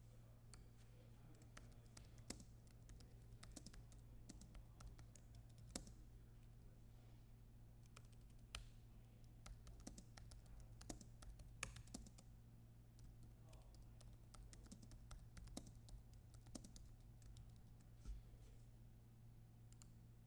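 Faint, irregular clicks and taps of computer keyboard typing and mouse clicks, over a low steady electrical hum.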